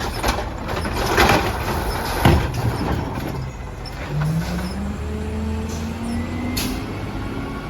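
Peterbilt 320 garbage truck: a couple of clanks in the first few seconds, then its engine climbing slowly and steadily in pitch from about four seconds in.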